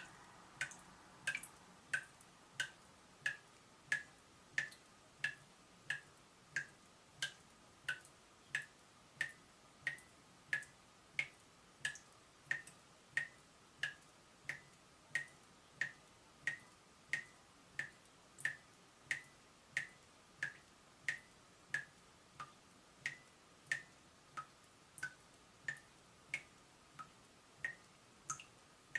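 Leaking tap dripping steadily: single water drops plinking at an even rhythm, about one and a half drops a second, each a short click with a brief pitched ring.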